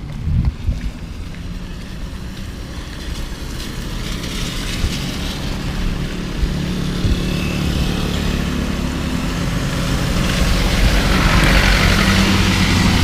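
A motor vehicle's engine running close by over a low rumble, growing louder over the last few seconds.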